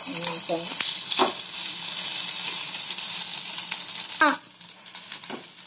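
Sliced onions, capsicum and green chillies sizzling in hot oil in a steel frying pan while being stirred with a metal spatula, with short scrapes of the spatula on the pan. About four seconds in, a sharper scrape comes and the sizzling drops off to much quieter.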